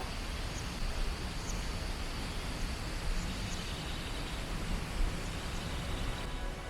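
Steady rushing roar of a waterfall, spread evenly from low to high pitch. Background music fades in just at the end.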